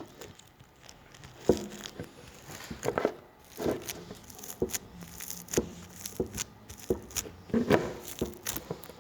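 Glow-in-the-dark slime being squeezed and stretched by hand, giving off irregular little pops and crackles, about a dozen of them.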